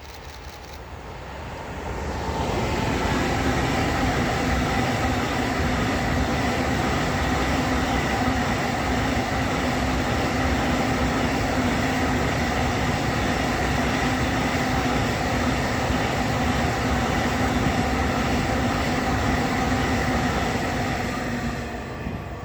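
Freight train of grain hopper wagons passing close by. It swells to full loudness about two seconds in, then holds a steady rumble with a steady hum under it, and fades just before the end.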